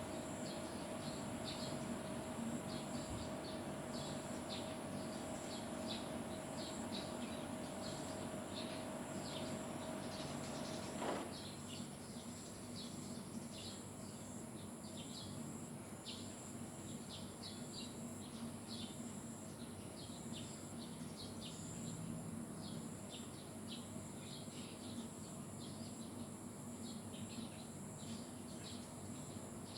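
Small birds chirping, many short high chirps repeating through the whole stretch, over a steady high insect-like drone. A steady low hum stops abruptly with a click about a third of the way in.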